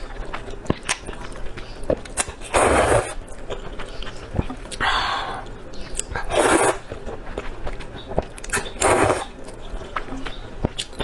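Close-miked mouth sounds of eating snail noodles: four noisy slurp-like bursts, each under about a second, with small wet clicks of chewing between them.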